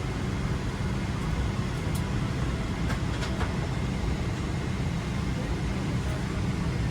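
Steady low rumble and hiss of an airliner cabin on the ground, with a few faint clicks.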